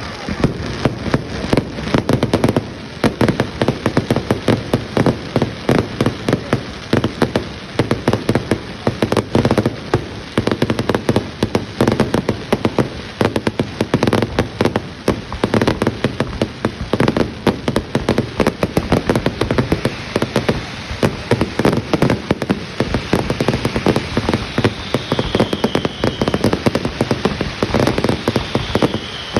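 Fireworks crackling and popping in rapid, continuous succession, with a faint brief whistle near the end.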